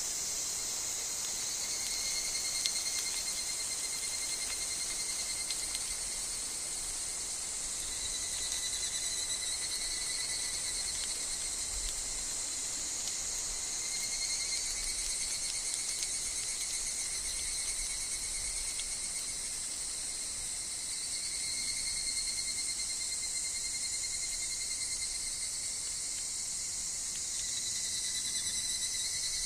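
Dense chorus of higurashi (evening cicadas) and other insects: a steady high shrill haze with overlapping trilled phrases that waver in pitch and come in waves of a few seconds.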